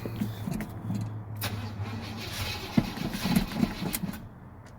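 1978 Chevy C10's engine starting on a brake-cleaner prime after years of sitting, running unevenly as it catches, with a few sharp clicks.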